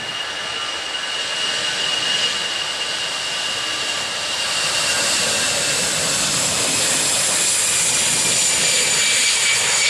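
Jet airliner's engines with a steady high whine over a broad rushing hiss, growing steadily louder; the whine dips slightly in pitch near the end.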